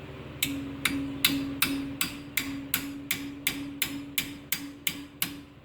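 Hammer striking metal in a steady rhythm, about fourteen even blows, each leaving a ringing note: tapping a bent VW push rod straight.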